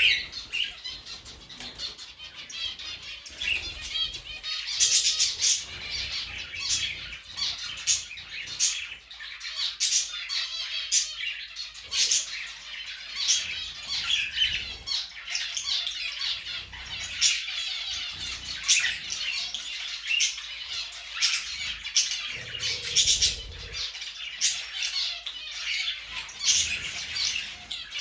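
Several birds chirping and squawking, with many short overlapping calls and frequent sharp clicks.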